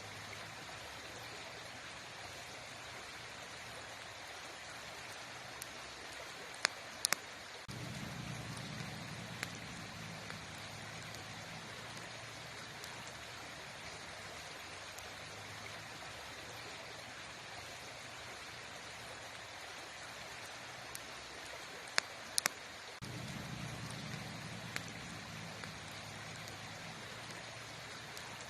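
Campfire burning with a steady crackling hiss and a few sharp pops. A deeper low rumble comes in twice, about eight seconds in and again past the twenty-second mark.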